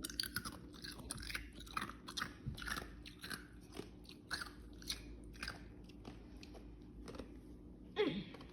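Close-up chewing of celery from a bowl of soup: a run of wet, crunching mouth clicks, thickest in the first few seconds and thinning out afterwards.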